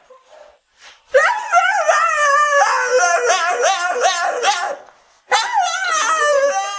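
Dog whining and howling in long, wavering cries that rise and fall, in two stretches with a short break about five seconds in.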